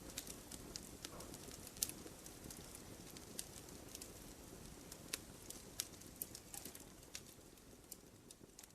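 Firewood burning, with scattered sharp crackles and pops over a soft low rush of flame; one pop about two seconds in stands out, and the low rush fades near the end.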